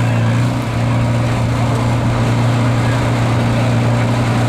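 Stock farm tractor engine running at a steady pitch with no rise or fall, loud and continuous.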